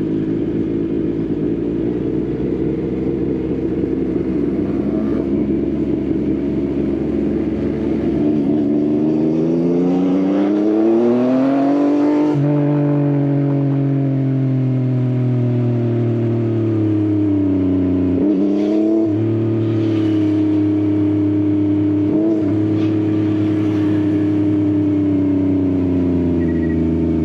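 Yamaha XSR900's inline-three engine through an Akrapovič exhaust, riding: steady at first, then revving up for a few seconds before the pitch drops sharply at a gear change about twelve seconds in. It then winds down slowly on a closed throttle, with two quick blips near the end.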